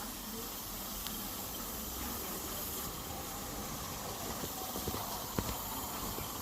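Steady hiss of steam from a live-steam garden-scale locomotive, with a few short clicks about five seconds in.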